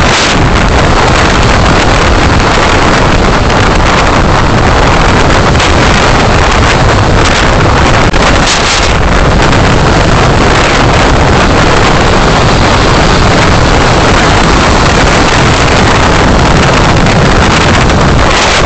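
Loud, steady road and wind noise from a car on the move, picked up by a dashcam microphone.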